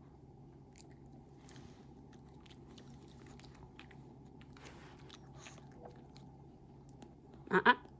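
Faint crunchy chewing of a small dog eating a treat, then a short loud two-part cry near the end.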